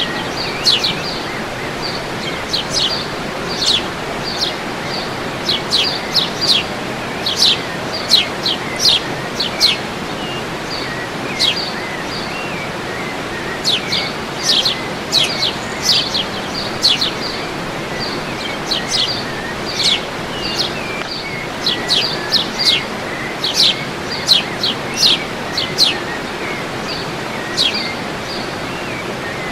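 Birds chirping, many short sharp high calls in quick runs, over the steady rush of a waterfall.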